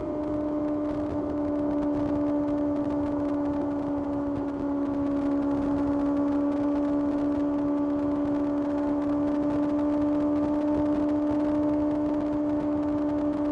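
Kawasaki ZX6R's 636 cc inline-four engine at high revs, holding a steady note as the bike cruises. The pitch drops slightly right at the start, then stays nearly level.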